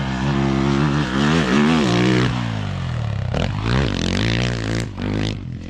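Dirt bike engine revving hard, its pitch climbing and dropping repeatedly as the rider accelerates and shifts. It becomes fainter and more broken after about two seconds.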